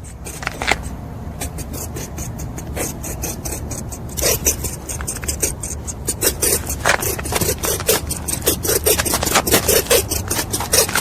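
Rabbit making a rapid, irregular run of short rasping clicks over a steady low hum; the clicks grow denser and louder about four seconds in.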